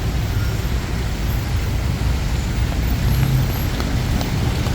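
Road traffic: vehicle engines running with a steady low rumble, swelling a little about three seconds in.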